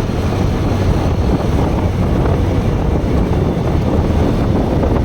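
Steady wind rush buffeting the microphone of a moving motorcycle, with the Bajaj Pulsar NS160's engine running underneath.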